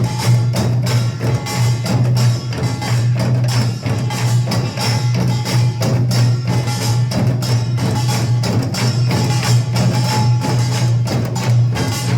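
Samul nanta percussion playing: fast, continuous beating of drums and hand percussion with dense, clattering strikes, over a steady low hum.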